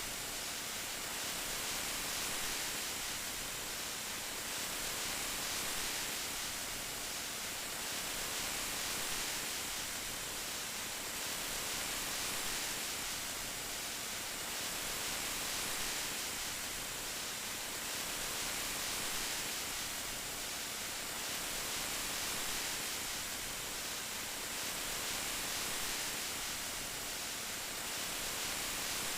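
Steady rain hiss, bright and heavy in the treble, gently swelling and easing every few seconds.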